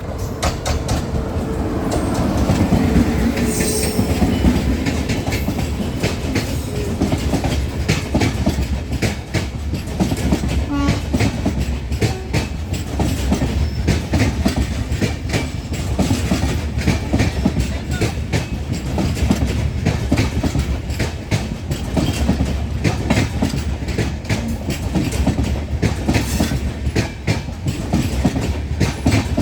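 Kamrup Express passenger train running, its wheels clattering rapidly and continuously over rail joints above a steady low rumble.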